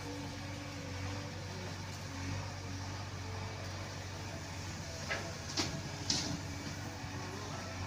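Diesel engine running steadily, with three short sharp metallic clanks or scrapes about five to six seconds in.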